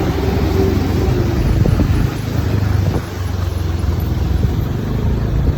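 TVS Ntorq 125 scooter's single-cylinder engine running steadily while riding, with road and wind noise.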